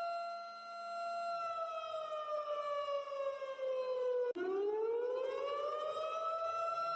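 Warning siren wailing: a steady tone that slowly falls in pitch for about three seconds, breaks off abruptly, then rises back to its first pitch and holds.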